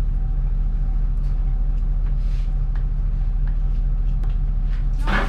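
A motor running steadily at idle with a low hum, joined by a louder hiss near the end.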